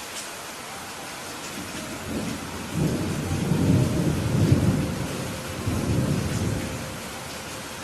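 Steady rain hiss, with a low roll of thunder that builds about two seconds in, swells twice and dies away near the end.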